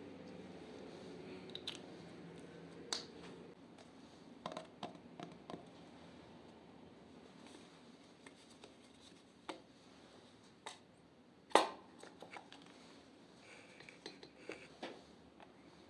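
Hands working slime with makeup mixed in, making scattered small clicks and pops and one louder snap about two-thirds of the way through. A faint steady hum stops a few seconds in.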